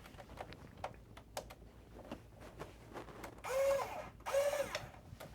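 A screwdriver working at the PS5's rear casing screws: light clicks and taps, then two short squeaky creaks a little past halfway. The screwdriver is the wrong one for these screws.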